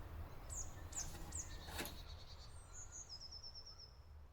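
Faint songbird chirps: three quick falling chirps, then a short rapid trill, over a faint low hum.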